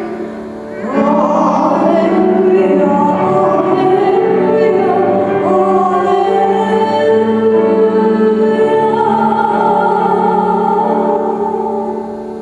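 Sung church music: voices holding long notes over instrumental accompaniment, fading away near the end as a chant at the Gospel acclamation of the Mass closes.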